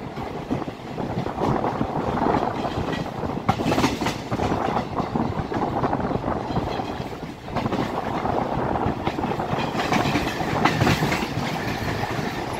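Passenger train coach running over the rails just after pulling out of a station, its wheels clattering over rail joints and points, heard from the open coach doorway.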